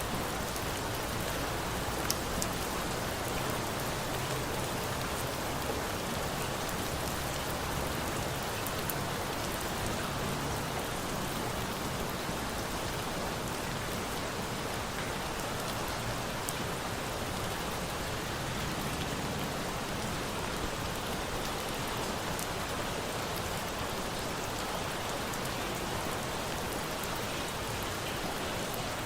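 Steady rain with a few sharp crackles from a wood campfire, the most marked about two seconds in.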